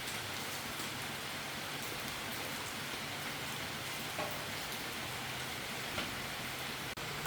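Steady heavy rain falling on a surface, with a couple of brief taps partway through.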